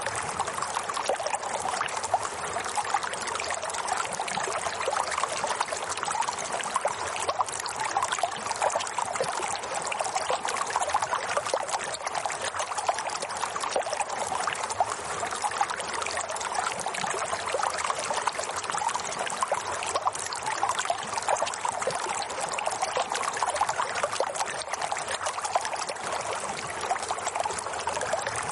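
Running water, a steady trickling, splashing flow like a small stream, unchanging throughout.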